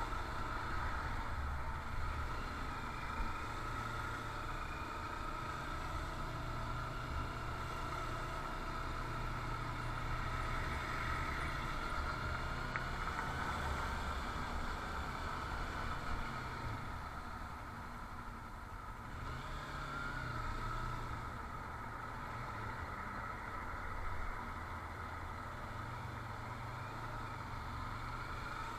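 Motorcycle running steadily, a continuous low rumble with a faint whine that drifts slowly up and down in pitch.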